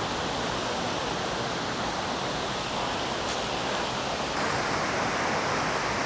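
Waterfall pouring steadily, a dense, even rush of falling water that gets a little louder about four seconds in.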